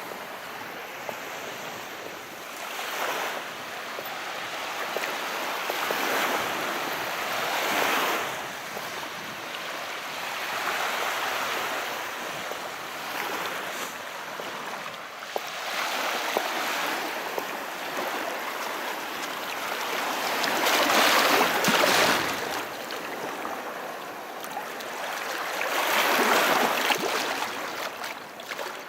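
Calm sea: small waves washing in and drawing back, a hiss that swells and fades every few seconds, with the biggest surges two-thirds of the way in and near the end.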